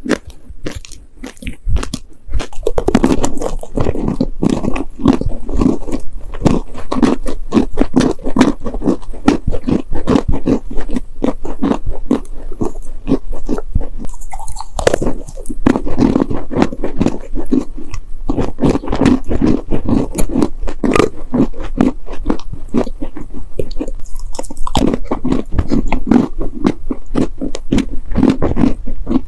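Close-miked chewing of dry, sandy clay cookies: a rapid, steady run of gritty crunches that starts in earnest about two seconds in, with brief lulls between mouthfuls.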